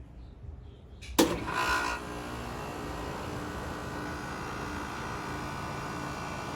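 A 2012 2.5-ton Rheem Value Series central air conditioner's outdoor unit starting up: a sharp clunk about a second in, a brief surge, then the scroll compressor and condenser fan settle into a steady hum.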